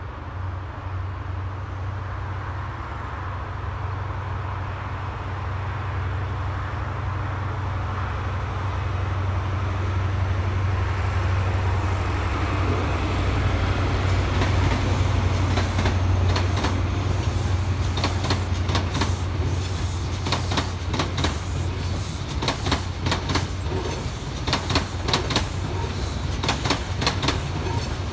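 LNER High Speed Train (InterCity 125) passing: the rumble of its diesel power car builds and is loudest about halfway, then the coach wheels clatter over rail joints and points in a quickening run of sharp clicks.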